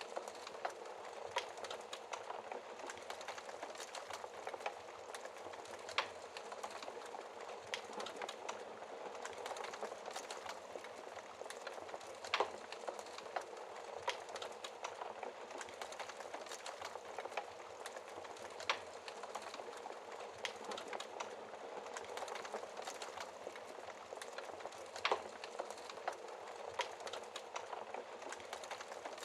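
Wood fire burning behind a glass shield: a steady crackle and hiss with louder sharp pops about every six seconds.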